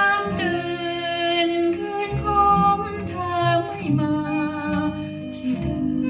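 A Thai song played from an old vinyl record: a solo voice singing long, wavering held notes with musical backing.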